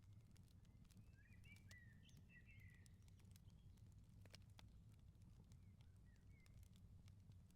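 Faint crackling of a wood fire in a garden firepit, with scattered sharp pops and clicks over a low steady rumble. A small bird chirps and warbles about a second in.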